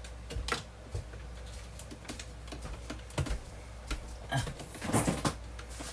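Scattered light clicks and knocks of an indoor electric grill's power cord and plug being handled and plugged into an outlet, irregularly spaced, over a low steady hum.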